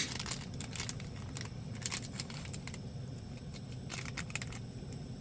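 A few light metallic clinks and clicks from small cooking gear being handled, scattered about two seconds in and again around four seconds in, over a low steady rumble.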